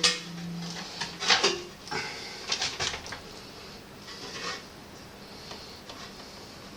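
Metal flue pipe being test-fitted into a flange, with short scrapes and light clinks of metal on metal, busier in the first three seconds and dying away after about four and a half seconds.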